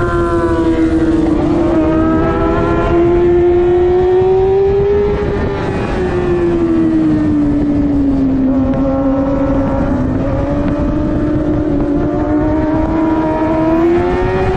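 Middleweight superbike engine running hard at high revs, its pitch sinking slowly for several seconds and then climbing again as engine speed drops and rises.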